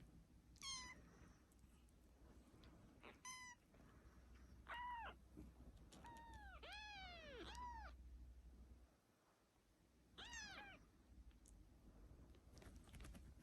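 A kitten meowing: about seven short, high-pitched meows, several of them in quick succession in the middle, then one more a few seconds later.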